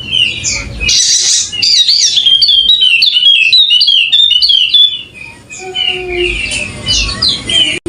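Yellow-spectacled white-eye (Wallacean white-eye) singing a loud, fast, continuous twittering song of quick up-and-down notes, with a brief lull about five seconds in.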